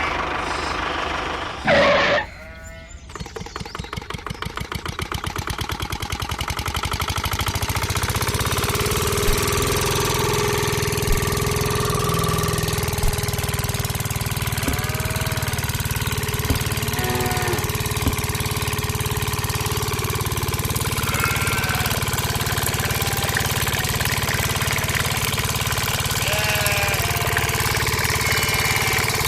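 Small engine starting up: a loud burst about two seconds in, then firing pulses that speed up and settle into steady running for the rest of the stretch.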